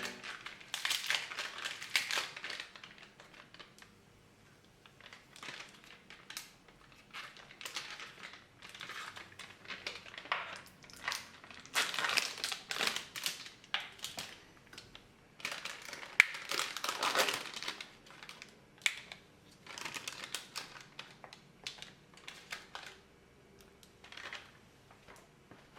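Intermittent handling sounds at close range: short crinkling rustles and small clicks, coming in irregular clusters.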